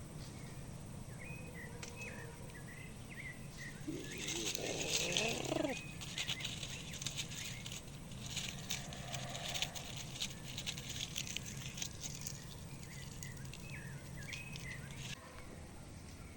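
Small birds chirping in short repeated calls over a steady low hum. A wavering call comes about four seconds in, and a stretch of crackling noise runs through the middle.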